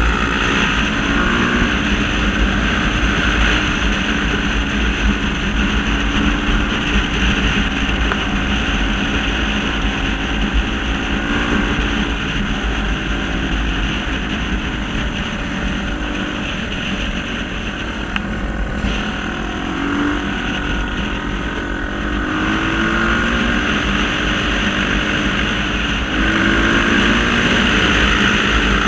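Honda Tornado trail motorcycle engine running, its pitch rising and falling as the throttle changes, with wind noise on the microphone.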